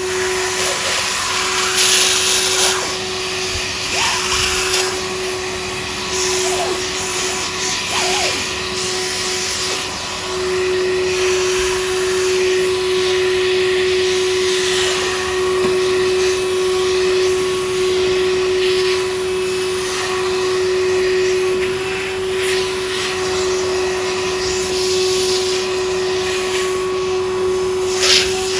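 Tenka Ryohin Kaze K2 cordless handheld vacuum cleaner running, its motor holding a steady whine over the rush of suction air. It is briefly broken by short crackles, and a few sharp clicks come near the end.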